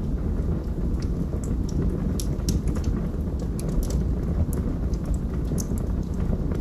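Log fire burning in a fireplace: a steady low rumble with irregular sharp crackles and pops from the burning wood.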